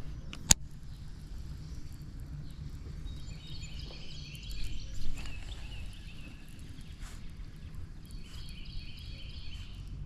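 Creekside ambience with a steady low rumble, one sharp click about half a second in, and a songbird singing in quick, high trilled phrases, once around the middle and again near the end.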